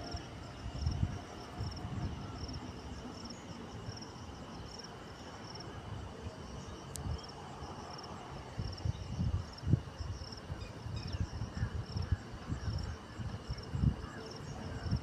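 Insects chirping, an evenly repeating high chirp over a steady high buzz, with irregular low rumbles that come and go.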